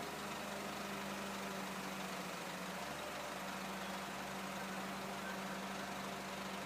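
A FAW heavy-duty dump truck's diesel engine idling, a steady low hum.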